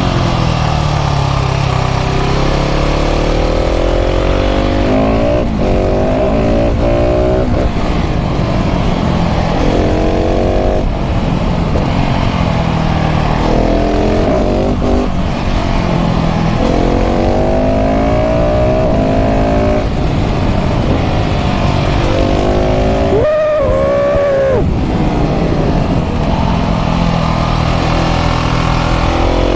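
KTM 690 SMC R's single-cylinder LC4 engine through a full LeoVince exhaust, accelerating hard again and again: the pitch climbs through each gear, then drops at each shift or as the throttle closes for a bend.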